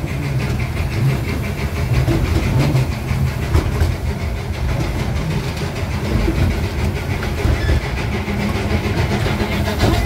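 Amusement-park ride-on train running steadily along its track, heard from aboard: a constant low rumble of the train and its wheels on the rails.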